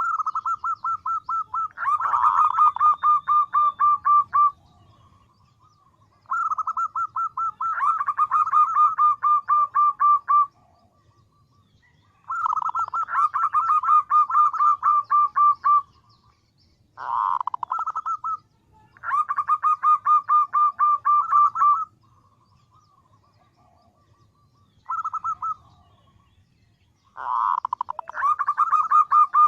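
Female zebra dove (perkutut) calling to draw males, the lure call used for trapping: repeated phrases of quick pulsed cooing notes, most a few seconds long, with short pauses between, and two brief ones partway through.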